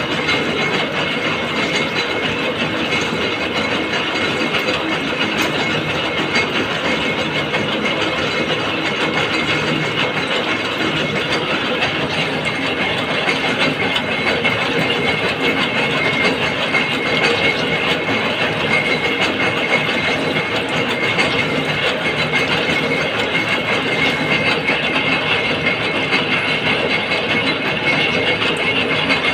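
Gear-cutting machine running: a steady, rapid mechanical clatter with a high whine.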